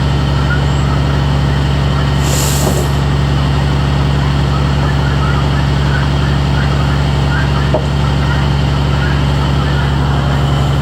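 Steady low drone of a truck's engine and road noise heard inside the cab, with a brief hiss a little over two seconds in.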